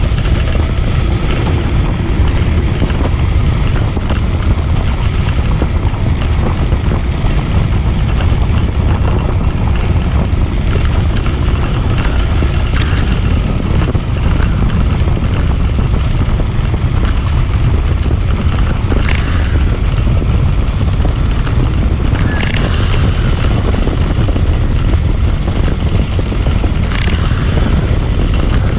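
Ride on a bicycle over a rough forest path: heavy wind buffeting on the microphone over a constant irregular rattling and clatter, with a few brief higher squeaks.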